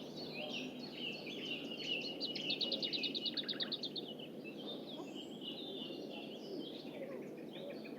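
Small songbirds chirping and warbling, with one bird's fast trill of about a dozen evenly spaced notes a couple of seconds in, over a steady low background rush.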